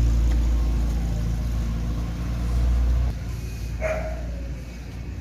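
Toyota Revo pickup's engine running with a steady low rumble that drops away sharply about three seconds in, followed by a single short dog bark.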